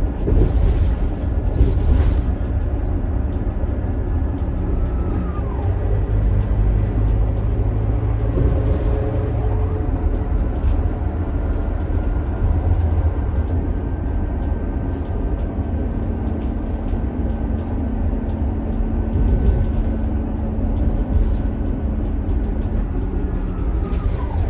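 Scania K280IB bus running: its DC9 five-cylinder turbo diesel gives a steady low drone. Thin whines from the driveline, including the ZF-Ecomat six-speed automatic, glide down in pitch about five seconds in and again near the end.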